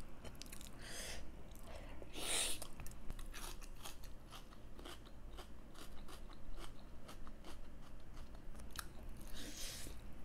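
Close-up eating sounds of pork curry and vegetables being chewed: many short wet clicks and crunches, with louder hissing bursts about one, two and a half, and nine and a half seconds in.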